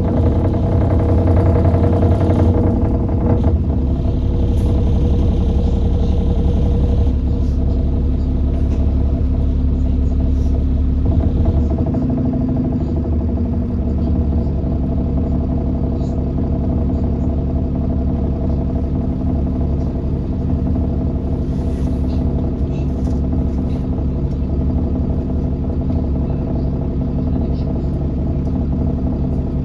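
Alexander Dennis Enviro400 double-decker bus's engine and drivetrain running steadily, heard from on board, with a shift in engine note about twelve seconds in.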